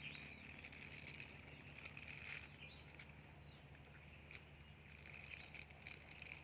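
Faint outdoor ambience: a steady high hum and a low drone, with a few brief bird chirps and faint small clicks.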